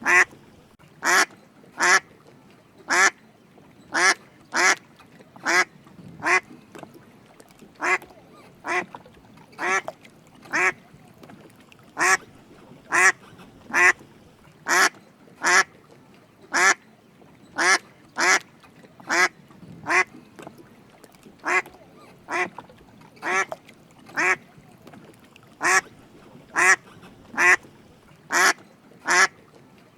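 Drake mallard calling: short quacking calls repeated steadily, about one or two a second, often in quick pairs.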